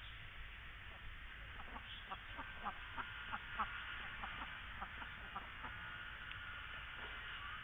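Flock of Indian Runner ducks calling: a rapid series of short quacks, busiest from about one and a half to four seconds in, then thinning out.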